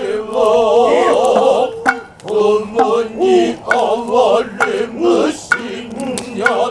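Male voices chanting Noh utai in the Kanze style, with long, strongly wavering held notes. A few sharp strikes fall between the phrases.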